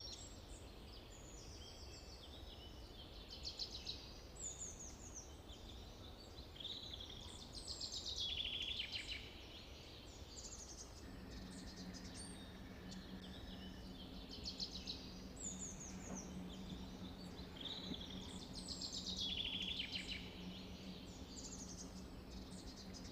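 Songbirds singing: short high phrases of trills and down-slurred notes every second or two, some overlapping. A faint steady low hum joins about halfway through.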